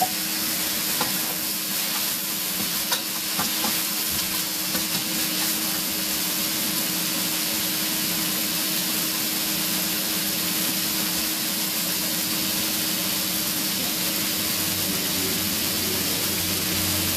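Food sizzling in a hot frying pan, a steady hiss with a constant low hum underneath and a few light clicks of stirring in the first few seconds.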